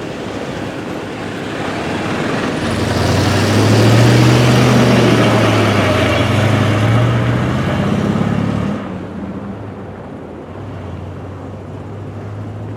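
Motor vehicle noise: a low engine hum with road noise, growing louder over the first few seconds and dropping off abruptly about nine seconds in.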